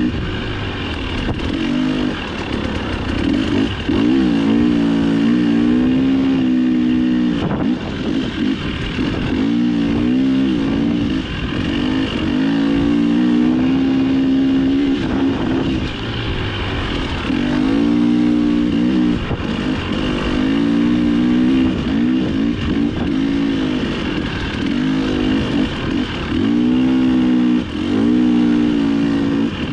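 Dirt bike engine revving up and down while being ridden hard off-road. The pitch climbs and falls over and over with throttle and gear changes, broken by brief drops where the throttle is rolled off.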